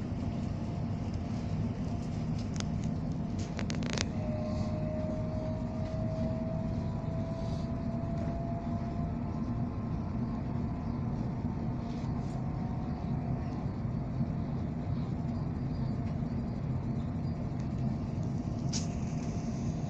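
Steady low rumble of a moving passenger train heard from inside the carriage, with a few sharp clicks about three to four seconds in and once more near the end. A faint whine rises slowly in pitch for several seconds after the first clicks.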